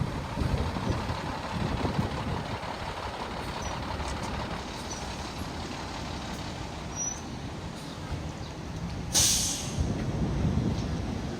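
A vehicle running with a steady low rumble, with one short, loud hiss about nine seconds in.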